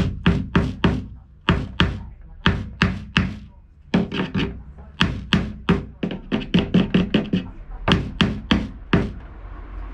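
Hammer blows on wood, a fast string of sharp knocks in runs of several strikes with short pauses between, as a wooden shelf is put together.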